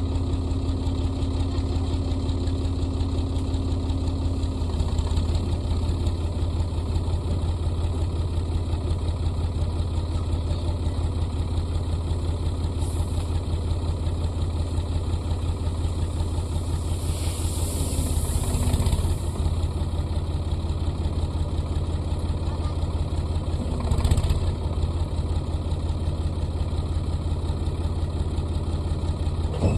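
Sonalika DI 42 RX tractor's diesel engine running steadily at idle, with a brief hissing swell a little past the middle and a single knock a few seconds later.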